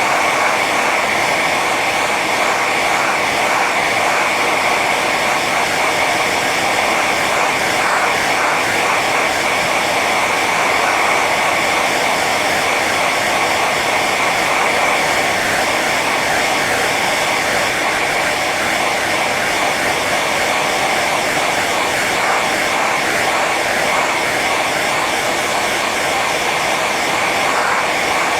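Hair dryer running continuously on its high setting: a steady rush of blown air with a constant high whine from the fan motor.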